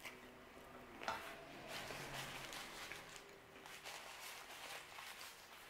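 Close-up chewing and mouth sounds from eating a bite of Neapolitan calzone: a run of soft clicks and smacks, with a sharper click about a second in.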